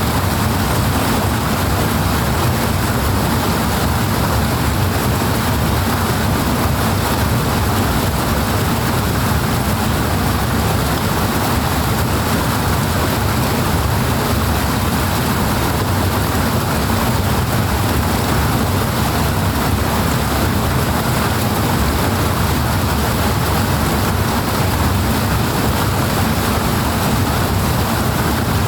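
Loud, steady rushing water of a fast-flowing canal, an even unbroken noise with a deep low rumble beneath it.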